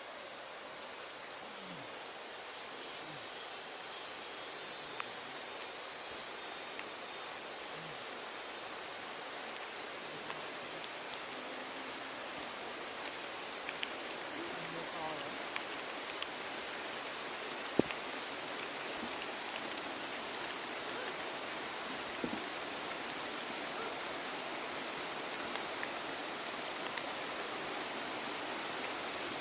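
Steady rain: a continuous hiss that slowly grows louder, dotted with sharp ticks of drops, one much louder about halfway through.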